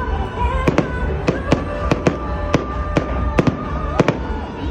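Fireworks going off in a rapid barrage, three or four sharp bangs a second, over a steady bed of music.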